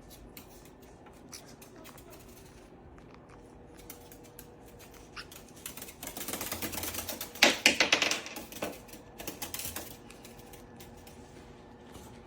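A rapid, irregular run of sharp clicks and taps, starting about six seconds in and dying away about four seconds later, over a faint background.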